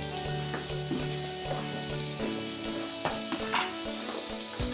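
Pieces of chana dal fara shallow-frying in a little oil in a nonstick pan, sizzling steadily, with occasional light clicks.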